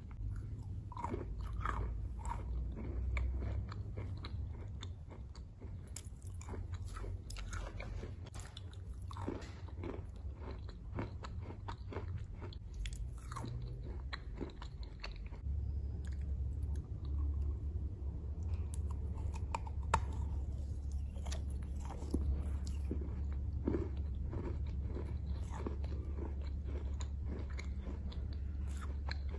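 Close-miked chewing and biting of a chunk of chalk, with many sharp crunches as it breaks and grinds between the teeth, over a steady low hum.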